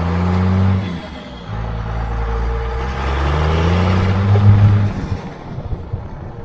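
Dodge Ram 2500's 12-valve Cummins diesel accelerating through the gears of its manual transmission. The engine note rises, breaks off for a gear change about a second in, climbs again to its loudest just before the end, then falls away.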